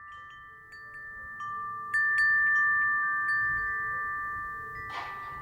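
Wind chime (furin) ringing in the breeze: several clear strikes in quick succession, each leaving long sustained tones that slowly fade. A short gust of wind rushes through near the end.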